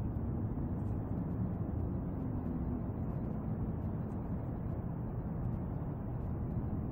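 Steady low rumble of outdoor background noise, with a faint hum during the first few seconds.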